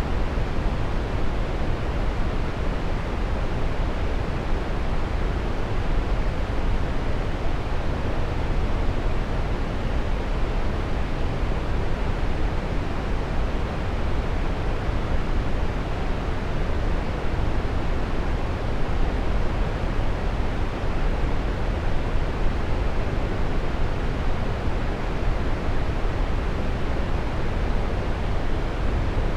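Waterfall: a steady rush of falling water with no breaks or changes, its sound weighted toward the low end.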